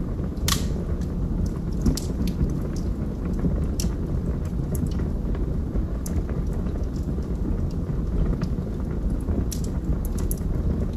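Wood fire burning in a fireplace: a steady low rumble of flames with scattered sharp crackles and pops from the logs, the loudest about half a second in.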